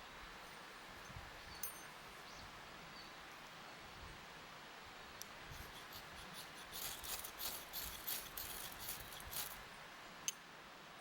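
Faint scratching and crackling clicks over a low hiss, coming thickest for about four seconds past the middle, with one sharp click near the end.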